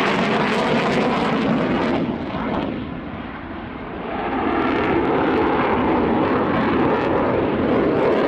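Saab JAS 39 Gripen fighter's Volvo RM12 turbofan jet noise during a display pass. The sound fades and dulls briefly about two to four seconds in, then swells back to full loudness as the jet turns and comes past again.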